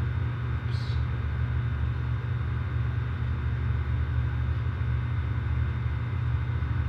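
Outdoor air-conditioner condensing units running with a steady low hum, among them a freshly started 2-ton Ruud Achiever unit with a scroll compressor.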